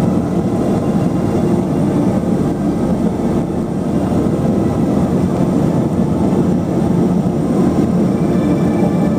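Let L-410 Turbolet's twin turboprop engines and propellers heard from inside the cabin: a loud, steady drone.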